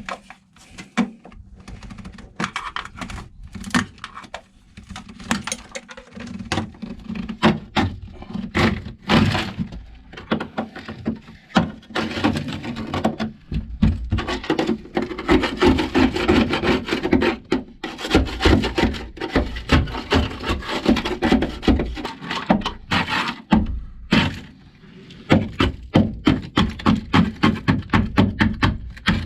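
Dry-ice-frozen sound-deadening mat being scraped and chipped off a Honda Civic's sheet-metal floor: a dense run of scrapes, knocks and cracks as the brittle material breaks apart, with a stretch of quick, even knocks near the end.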